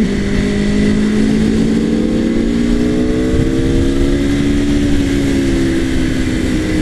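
Aprilia Tuono Factory's V4 engine running under way, its pitch rising gradually over a few seconds and then easing slightly, over a steady rush of wind noise.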